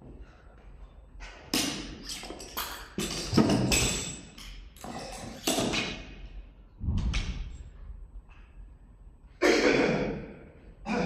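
Irregular thuds and knocks of gym equipment being worked during a timed CrossFit workout, several loud hits with short ringing tails, the loudest about a third of the way in and again near the end.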